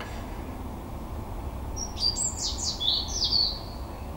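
A songbird singing a short phrase of quick, high, falling chirps, starting about two seconds in and lasting about a second and a half.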